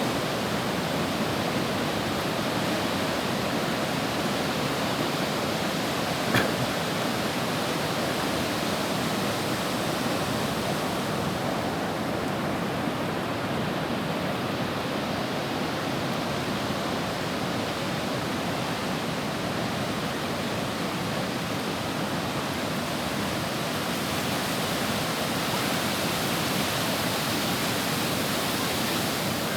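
Sea surf washing onto the beach, a steady rushing noise with no separate breaks standing out, and one brief sharp click about six seconds in.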